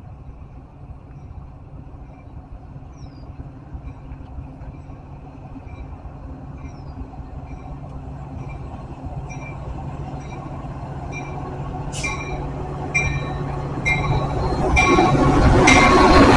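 Metra commuter train led by an EMD F40PH diesel locomotive approaching: a low diesel hum that grows steadily louder, with a series of sharp wheel clicks over the rail joints and switches in the second half. The full rumble rises as the locomotive reaches the microphone near the end.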